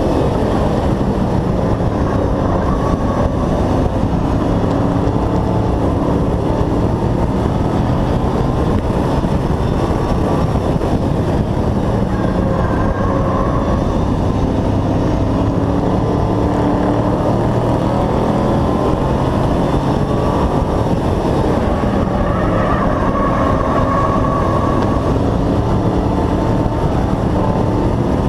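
Hobby stock race truck's engine running hard at racing speed, heard on board, its pitch rising and falling with the throttle around the track, over a constant rush of noise.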